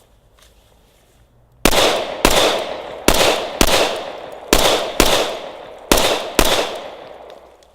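Glock 21 Gen 4 .45 ACP pistol firing eight shots as four quick pairs, the two shots of each pair about half a second apart and the pairs about a second apart. Each shot rings out and fades slowly.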